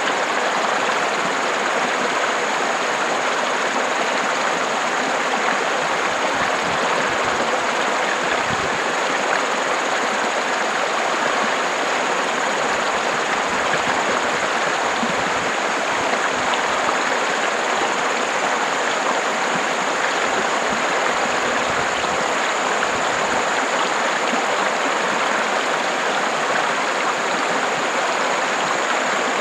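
River water rushing and splashing over rocks, a steady, even rush.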